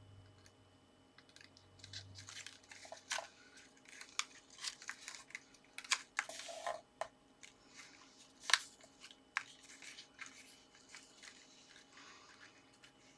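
Cardstock pop-up pieces being handled and set in place: irregular paper crinkles, taps and clicks, the sharpest about eight and a half seconds in.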